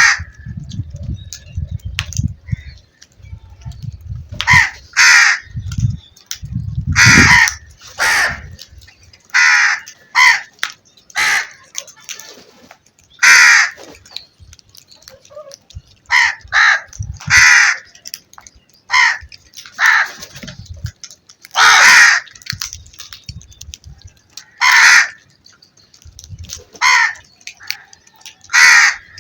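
Crows cawing: a long series of loud, harsh caws, singly and in quick pairs, a second or two apart.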